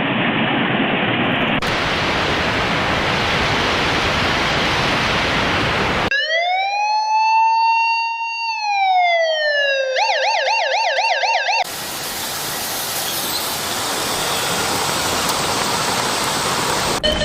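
A steady rushing noise, cut off after about six seconds by an electronic siren heard alone: a wail that rises, holds and falls, then a fast yelp warble. About four seconds later the siren stops abruptly and the rushing noise returns.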